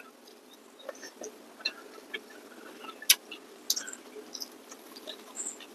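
Close-miked chewing and mouth sounds of people eating with their hands: scattered small wet clicks and smacks, with one sharper click about three seconds in.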